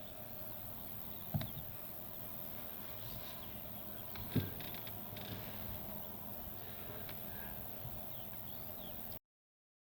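Faint outdoor ambience with a few faint, short, high bird chirps. Two soft low thumps come about a second and a half and about four and a half seconds in. The sound cuts off just before the end.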